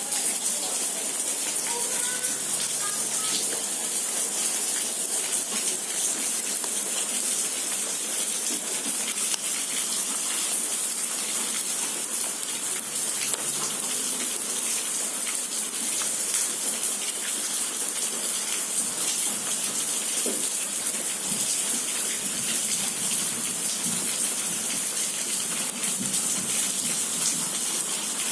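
Steady rushing hiss of running water on a wet street after rain.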